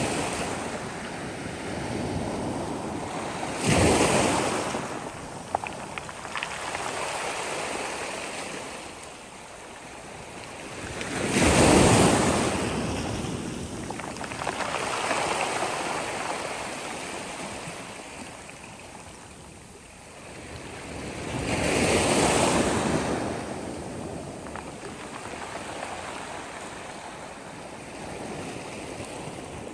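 Sea waves breaking on a shore, three larger waves crashing about 4, 12 and 22 seconds in, each swelling and washing away, over a steady wash of surf.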